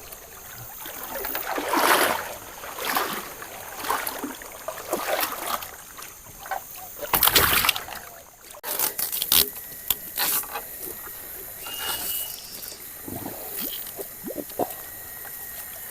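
River water splashing and sloshing in irregular surges, with a few sharper splashes or knocks in the middle, as people move through the water.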